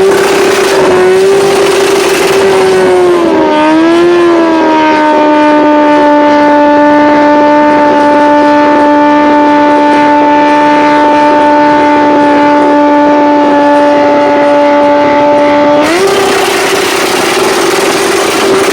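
Yamaha motorcycle engine revved hard and held at a steady high rev through a loud exhaust. The revs waver at first, hold level for a long stretch, then jump up sharply near the end.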